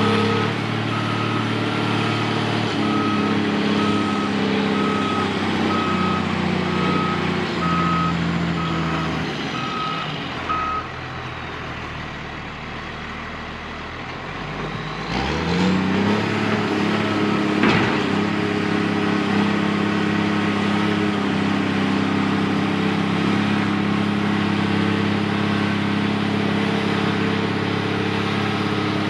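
Heavy diesel earthmoving machine running, its reversing alarm beeping steadily until about a third of the way in. The engine then drops back, revs up again about halfway through and runs on steadily.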